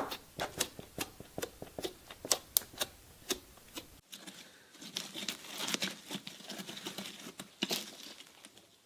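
A shredder crushing and tearing material. It gives sharp, scattered crackles for the first four seconds, then after a cut a denser crinkling, tearing sound that fades away near the end.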